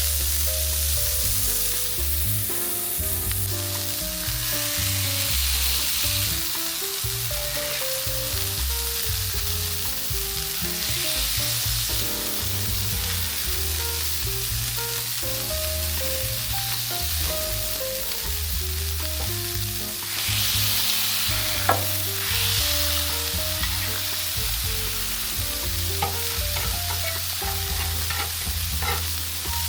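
Food sizzling steadily as it fries, with a few sharp clicks; the loudest comes a little past the middle. Background music with a bass line plays under it.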